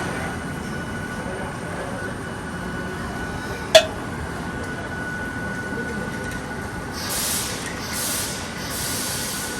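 Hakone Tozan Railway 100-series train with a steady running hum and a thin steady tone. There is one sharp click a little under four seconds in, then several short bursts of hissing from about seven seconds in.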